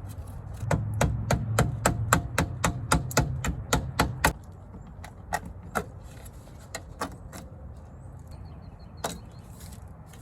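A quick, even run of sharp clicks, about five a second for three or four seconds, over a low hum, then a few scattered clicks, from hand work on a Jeep Comanche door's window trim.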